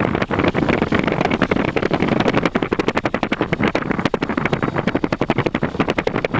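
Cessna 150's Continental O-200 four-cylinder engine and propeller at full takeoff power during the takeoff roll, heard from inside the cockpit as a loud, choppy drone with rapid uneven pulses.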